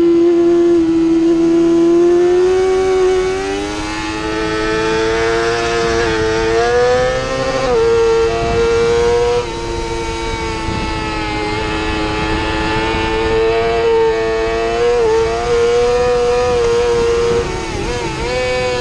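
Yamaha YZF-R6's inline-four engine screaming at high revs under race load, heard from on board, its pitch climbing early on and then held high with brief dips around 8, 15 and 18 seconds in as the throttle and gears change.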